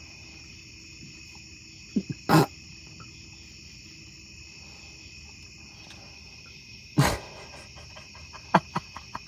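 Engine oil draining out of the van's oil pan drain hole, burping in a few short bursts, about two and seven seconds in. Crickets chirp steadily behind.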